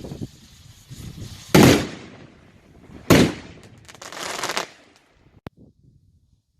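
Fireworks going off: two sharp bangs about a second and a half apart, each with a short noisy tail, then a shorter, quieter burst.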